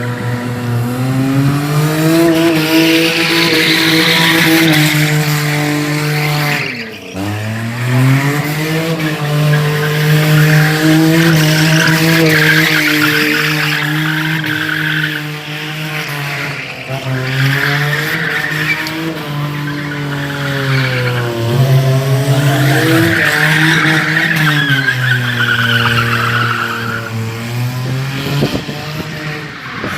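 A car engine held at steady high revs for several seconds at a time. It drops and climbs back about seven seconds in and a few times later, with a screeching hiss like tyre squeal over it.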